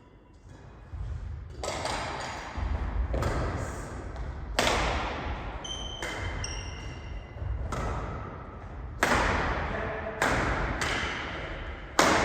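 Badminton rally: rackets striking the shuttlecock about a dozen times at an uneven pace, each hit ringing in a large hall, with short high squeaks of shoes on the court floor in between.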